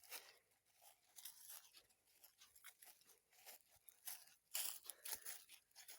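Faint crunching footsteps on a trail, an irregular run of short crackling steps, loudest a little after four and a half seconds in.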